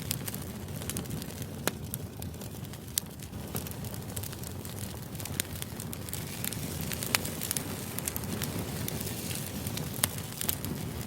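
Crackling fire ambience used as background white noise: a steady low rumble with irregular sharp pops and crackles.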